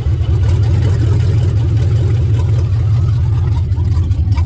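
Vehicle engine running steadily, a loud low rumble with a fluttering pulse.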